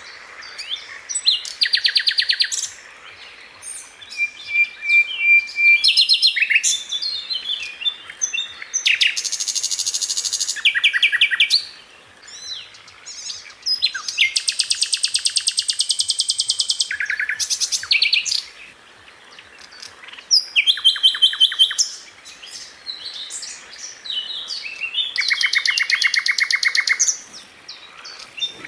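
Sikatan londo (a flycatcher) singing: bouts of very fast, rapidly repeated trilled notes and chirps, each lasting one to three seconds, with short pauses between.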